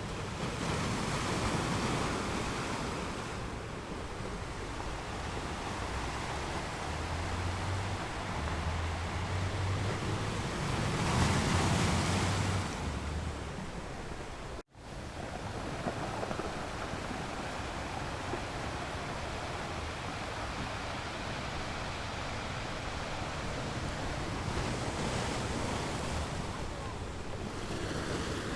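Sea waves washing onto the shore: a steady rush of surf that swells and ebbs, with the biggest surge about eleven seconds in. The sound cuts out for a split second about halfway through, then the surf carries on.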